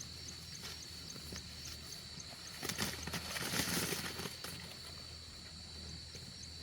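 Outdoor field ambience with a steady, high insect drone and faint repeated chirps, and a stretch of rustling and handling noise about three seconds in.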